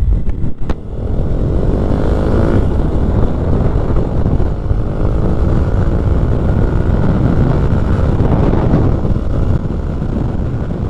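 Keeway 152 motorcycle accelerating hard, a couple of short clicks at the start, then engine pitch rising as it revs up about a second in and again near the end, over a steady low rumble.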